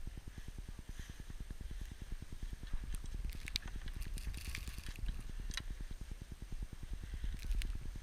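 Wind in a snowstorm buffeting the microphone with a steady low rumble, with scattered sharp clicks and crackles in the middle and near the end.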